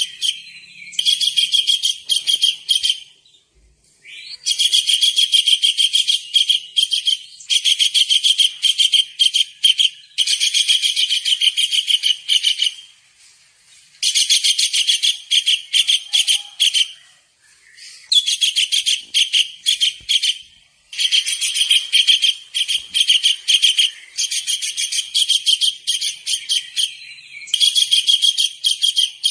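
Kingfisher (tengkek udang) calling in shrill, rapid trills: about ten bouts of fast repeated high notes, each two to three seconds long, with short breaks between them.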